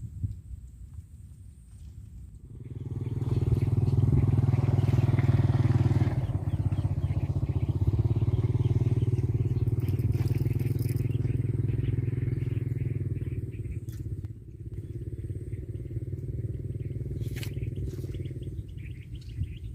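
A small engine running steadily, starting about two and a half seconds in, loudest for the next several seconds, dipping briefly around fourteen seconds and carrying on more quietly.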